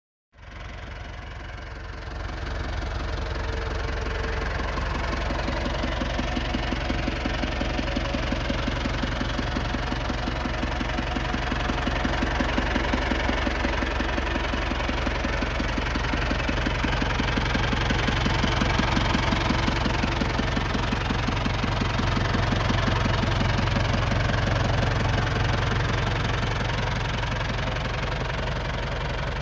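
International 674 tractor's four-cylinder diesel engine idling steadily, with an even knocking beat; it gets louder about two seconds in.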